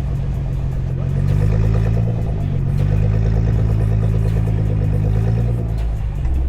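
Car engine running under load while driving, its pitch stepping up about a second in, holding, then easing off near the end.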